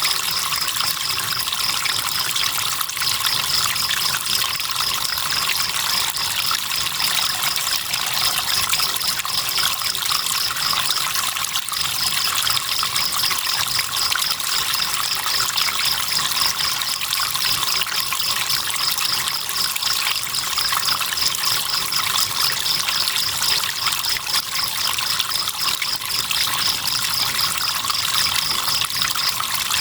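Flowing river water trickling steadily, with a cricket chirping in a fast, even, high-pitched pulse over it; the chirping breaks off briefly about 3 seconds in and again about 11 seconds in.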